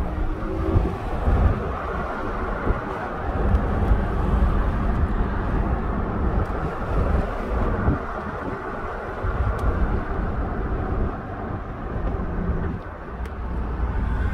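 Steady road and wind noise of a moving car: a continuous low rumble with a rushing hiss.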